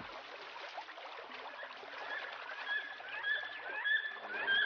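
Stream water running steadily. From about two seconds in, an eaglet gives a series of short, high, repeated chirping calls over it.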